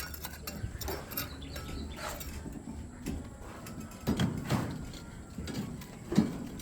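Concrete-pouring work: scattered knocks and clatter over a low steady hum, with brief distant voices a few times.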